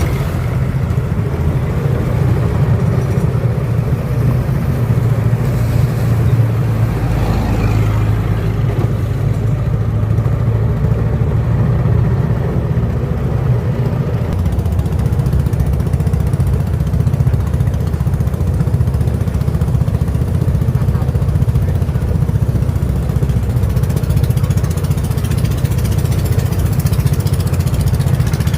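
A boat's motor running steadily under way, a continuous low drone.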